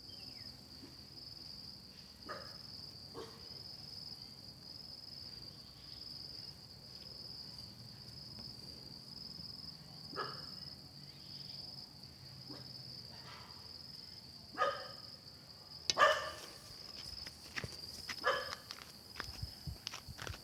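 Thai kite hummer (sanu) with a 95 cm bow and 48 cm blade droning faintly in the wind, a low wavering hum. Steady pulsing insect chirping and several short, sharp calls sound over it, the loudest about sixteen seconds in.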